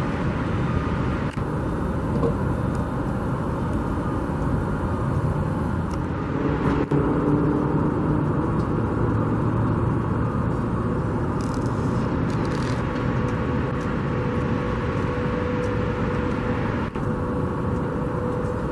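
Steady road traffic noise of passing cars, with a faint steady engine tone joining in the second half.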